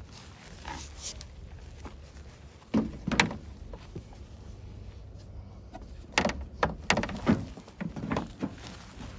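Knocks and rattles from parts being handled and fitted on a truck's front end: a couple of sharp knocks about three seconds in, then a run of clattering knocks from about six seconds on, over a steady low hum.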